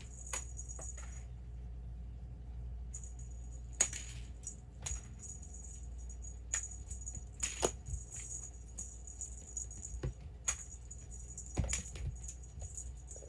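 Small bell jingling on a feathered bird-ball cat toy as it is swung on its string and batted, with scattered light taps and knocks from the cats' pounces.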